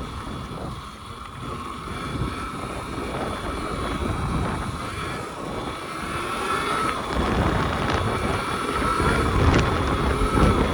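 Wind buffeting the microphone while riding an electric pit bike, with a faint steady whine from its electric motor. The wind rumble grows louder after about seven seconds.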